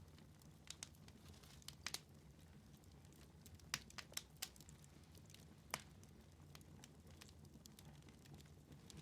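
Wood fire in a fireplace crackling faintly, with scattered sharp pops, the busiest run of them in the middle, over a low steady hum.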